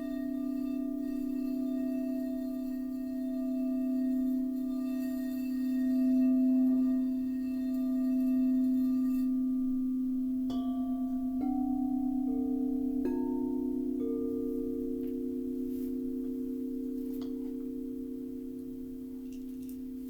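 Singing bowls ringing with long, steady, overlapping tones. About halfway through, several bowls are struck one after another in quick succession, each adding a new tone that then rings on.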